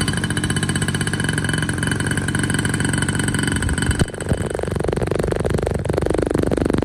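Small two-stroke engine of a restored mini racing motorbike running at speed with a rapid, even firing buzz; its note shifts about four seconds in.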